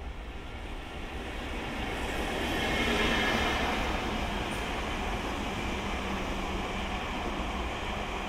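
A train running past on the rails. Its noise builds to its loudest about three seconds in and then carries on steadily.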